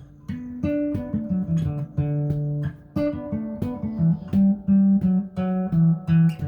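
Guitar picking a walking bass line, single low notes stepping from pitch to pitch under ringing chord tones, each note plucked separately.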